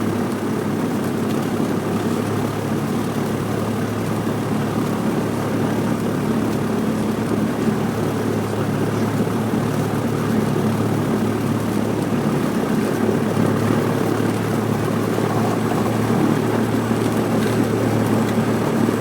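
Cessna 172's piston engine and propeller running with a steady drone, heard from inside the cabin.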